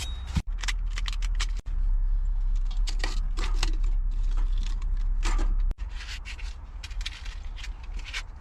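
Lumps of charcoal scraping and clinking as they are handled and added to a homemade heating stove, many short irregular clicks and scrapes over a steady low hum.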